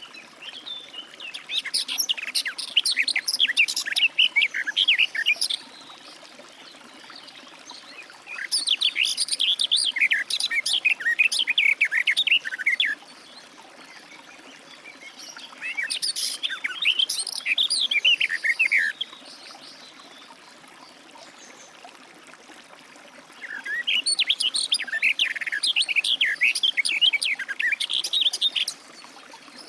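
Garden warbler singing: four long phrases of fast, rich warbling, each lasting about four to five seconds, with pauses of a few seconds between them.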